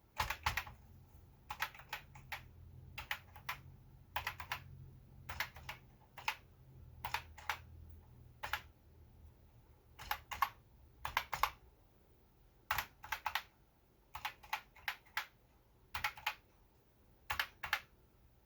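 Keys of a repaired Commodore 64 keyboard being pressed one at a time, each key giving a sharp click, often in pairs as it goes down and comes back up. This is a key-by-key test to check that every switch works. A faint low hum runs under the first several seconds and then stops.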